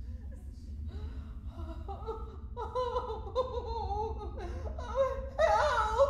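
A person laughing, in long wavering peals that get louder near the end.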